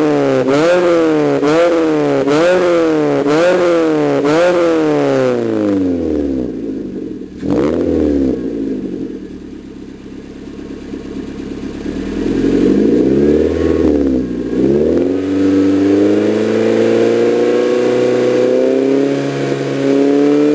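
Suzuki Swift Sport ZC31S's 1.6-litre four-cylinder engine heard through an aftermarket exhaust (Sunline center pipe and Suzusport SP-X dual muffler). It is revved in a rapid series of short blips for the first few seconds, settles to idle with a single sharp blip, then is revved again and held at higher revs near the end.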